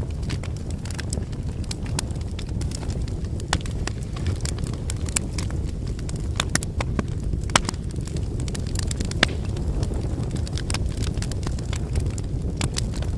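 Wood fire burning: firewood crackling and popping in irregular sharp snaps over a steady low rumble of the flames, with a couple of louder pops in the middle.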